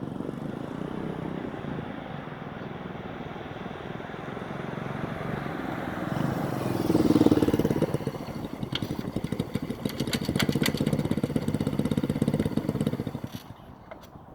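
X26 125cc pit bike's single-cylinder four-stroke engine running, growing louder about halfway through, then a stretch of evenly spaced, distinct firing pulses; the sound drops away sharply near the end.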